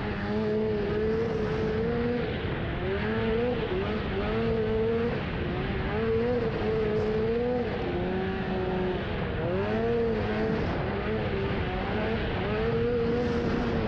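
Snowmobile engine running at speed, its pitch rising and dipping every second or two as the throttle is worked, under constant wind noise on the camera microphone.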